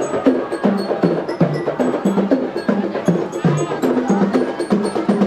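A percussion ensemble plays a quick rhythmic tune of short, struck, pitched notes with sharp strikes throughout.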